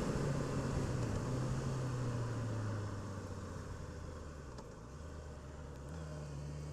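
Vehicle engine running at low road speed with a low steady hum over faint road noise; the note drops and fades a few seconds in as the vehicle slows, then rises slightly near the end.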